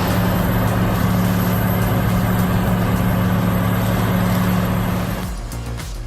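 Heavy truck engine running steadily with a low, even hum under broad mechanical noise, dying away about five seconds in.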